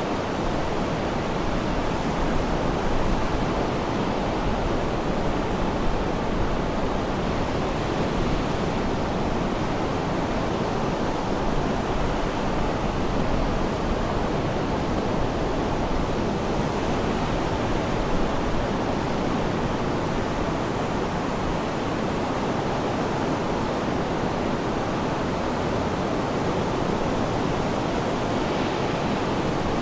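Sea surf: a steady rushing wash of waves with no clear rise and fall of separate breakers.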